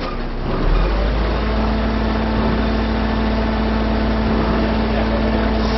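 Heavy truck diesel engine that picks up about half a second in and then runs steadily at a constant pitch.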